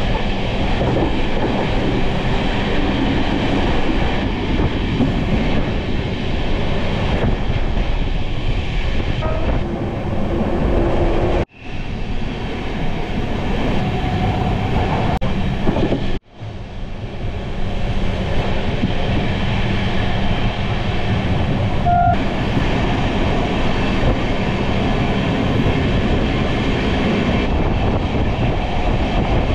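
Passenger train running at speed, heard from inside the coach: a steady rumble of wheels on the rails. The sound drops out abruptly twice, at about eleven and about sixteen seconds in.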